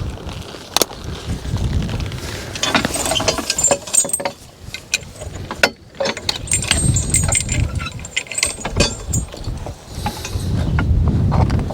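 Metal harness hardware and chains on a draft-horse team clinking and jingling irregularly as the horses are hitched, over a low rumble.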